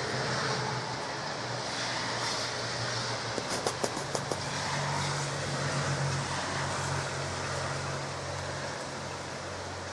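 Light rain falling steadily, with the low steady hum of a car engine underneath that swells a little past the middle. Just under halfway through comes a quick run of about six clicks.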